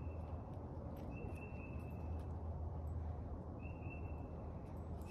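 A bird's short, flat whistled note, repeated twice every two to three seconds, over a steady low rumble.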